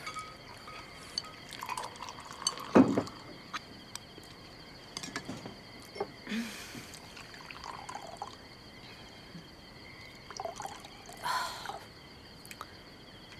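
Table sounds of a meal: a drink poured briefly a couple of times, with scattered small clicks of dishes and chopsticks, over crickets chirping steadily.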